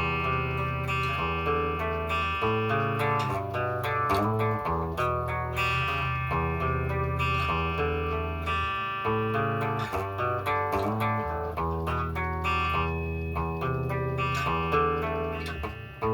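Guitar playing a chord progression: chords are strummed or picked and held for a second or two, changing all the way through.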